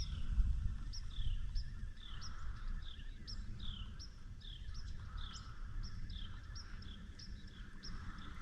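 A single bird repeating a short two-part call, a quick rising note then a falling note, over and over at a bit more than one a second, over a low steady rumble.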